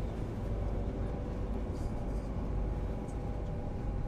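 Steady low rumble of a moving electric passenger train, heard from inside the carriage, with a few faint ticks.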